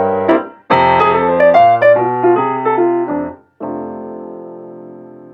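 Outro music played on piano: a few chords and a short phrase, ending on one held chord that fades away about three and a half seconds in.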